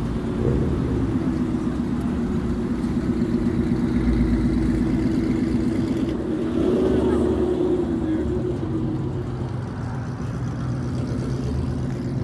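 Ford Mustang engine running at low revs through its exhaust as the car rolls slowly by. The note swells under light throttle about half a second in and again around six and a half seconds, then eases off as the car pulls away.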